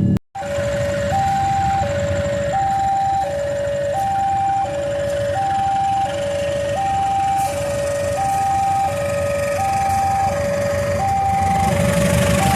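Railway level-crossing warning alarm sounding a two-tone electronic signal, a higher and a lower note alternating about every 0.7 seconds, over a low rumble that grows louder near the end.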